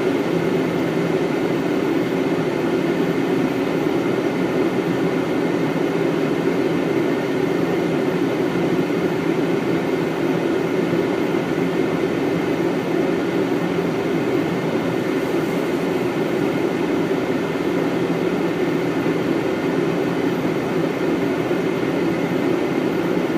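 Steady flight-deck noise of a Boeing 777 on final approach: an even rush of airflow and air conditioning with a low hum underneath, unchanging throughout.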